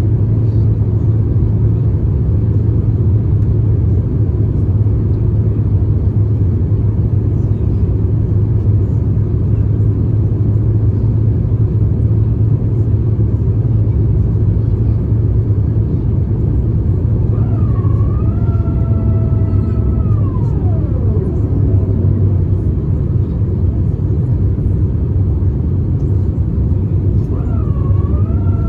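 Steady low cabin rumble of an Airbus A350-900 in flight, heard from inside the cabin. About 18 seconds in, a whine comes in, dips, holds, then glides steeply down and fades. Another whine starts near the end.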